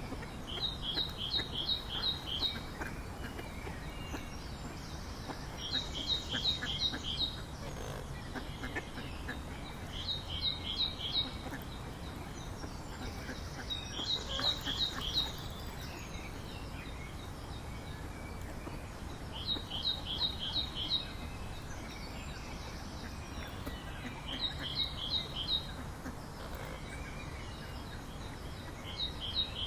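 A songbird singing the same short phrase over and over: five or six quick, evenly spaced high notes, repeated every four to five seconds.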